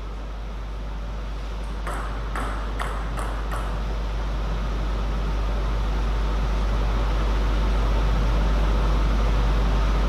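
Table tennis ball clicking about five times in quick succession, a little under half a second apart, a couple of seconds in, over a steady low hum that slowly grows louder.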